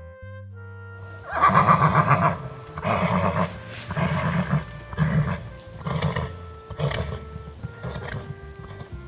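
Comic animal-call sound effect over background music: one long loud call, then about six shorter calls roughly a second apart, each shorter and fainter than the last.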